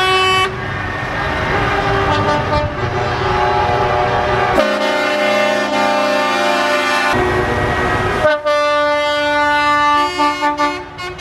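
Truck air horns sounding in long blasts, several pitches at once, over the low rumble of engines. One long stretch of horns runs from about five to seven seconds in and another from about eight to ten.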